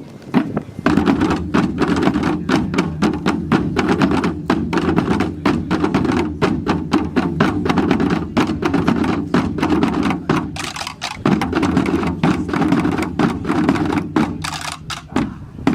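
Drums beaten in a fast, uneven stream of strokes, with a brief lull in the deeper sound about eleven seconds in.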